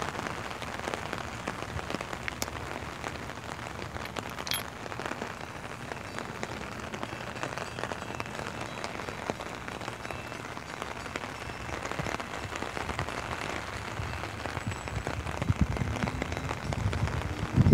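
Steady rain pattering on an umbrella held over the microphone, a dense patter of small drop hits. A low rumble builds up near the end.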